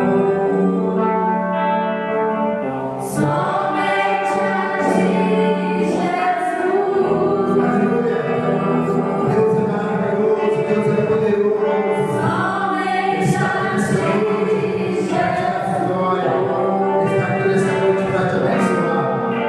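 Gospel worship song with choir-style singing; a beat comes in about three seconds in.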